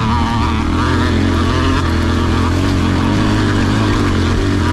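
Small dirt bike engine running hard under load on a steep, rocky trail climb, its pitch wavering slightly. It stops abruptly at the end.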